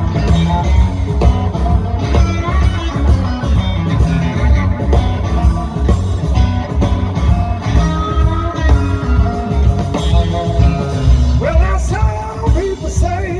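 Live electric blues band playing, the electric guitar out front over bass and drums with a steady beat. Near the end, pitched lines start to bend up and down.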